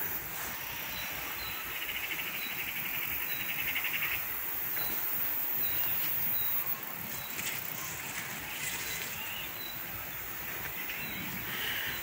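Woodland birdsong: a fast, buzzy trill for the first few seconds, a thin high note repeated every half second or so, and a few faint chirps later on, over a low rumble on the microphone.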